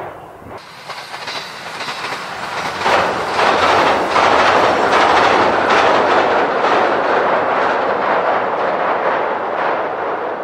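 Train crossing a steel truss railway bridge: a rumble with a rhythmic clatter of wheels over the rails. It grows loud from about three seconds in and eases a little near the end.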